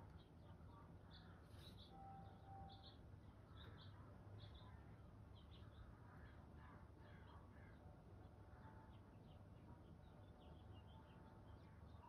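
Faint chirps and short calls of small backyard songbirds, many scattered throughout, with a couple of brief held whistled notes about two seconds in, over a steady low background rumble.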